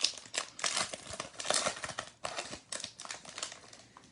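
Trading card pack wrapper crinkling and tearing as it is opened and handled, in a quick irregular run of crackles.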